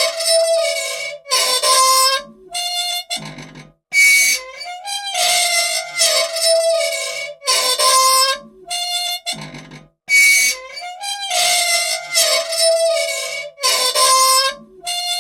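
Old machine squeaking for want of oil: a run of loud, pitched squeals of several lengths, some gliding in pitch, repeating in a cycle of about six seconds.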